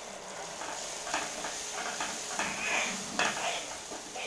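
Tomato and shallot masala sizzling in oil in a pan while a spoon stirs it, with scrapes and light taps of the spoon against the pan; turmeric has just gone in and is frying with the masala.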